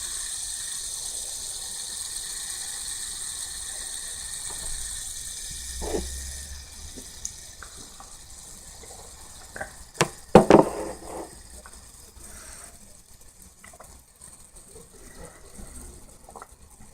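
Two fidget spinners spinning together: a steady, high whirring hiss from their bearings that dies away over the first six or seven seconds. About ten seconds in there are a few sharp knocks and a short clatter, the loudest sounds here.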